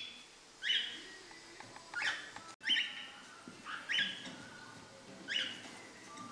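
A caged pet bird calling over and over: short, sharp chirps that sweep upward and level off, about one a second.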